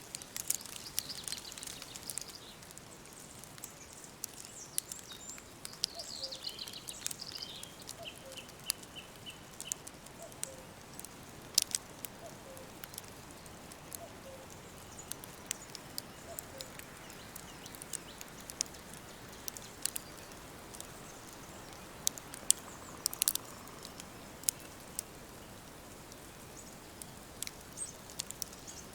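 Woodland birdsong over a steady faint hiss: songbirds chirp and trill in the first ten seconds, ending in a quick run of repeated high notes, while a faint low note repeats about once a second for a while. Sharp crackles and clicks are scattered throughout.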